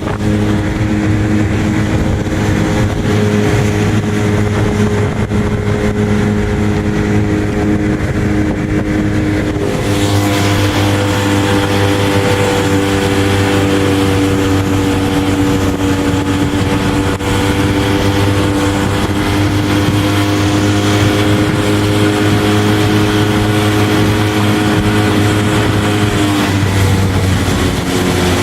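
Suzuki DF15 four-stroke outboard motor running steadily at speed, driving the boat. Its note shifts about ten seconds in as more water and wash noise joins it, and drops slightly near the end as the throttle eases.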